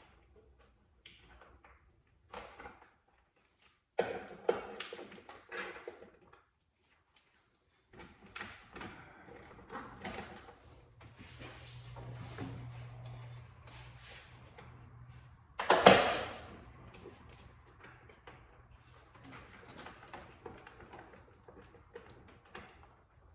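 Hand work on car parts: scattered clicks, rattles and scraping from tools and parts being fitted, with one loud knock about sixteen seconds in.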